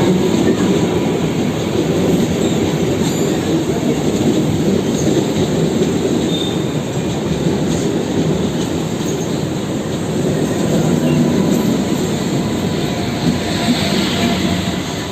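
Mumbai suburban electric local train running on the rails, a steady wheel rumble with faint wheel squeal near the end.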